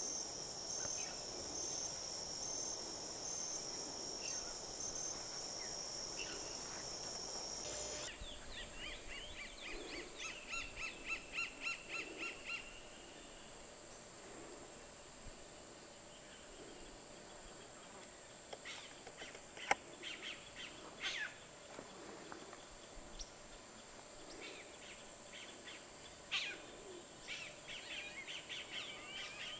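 Tropical forest ambience. For about the first eight seconds there is a steady high buzz with a pulsing note. The sound then changes abruptly to a bird singing in bursts of rapid clicks and whistled notes, several times over, above a thinner steady high hiss.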